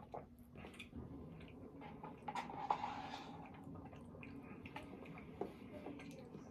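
Close-miked chewing and wet mouth sounds of eating, with many small clicks. A louder, noisier sound comes for about a second around two and a half seconds in.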